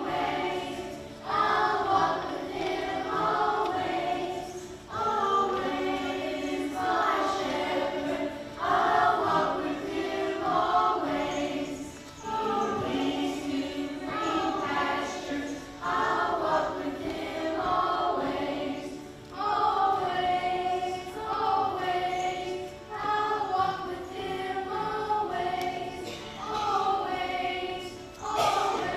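A church congregation singing a song together, many voices sung in phrases a second or two long with brief pauses between them.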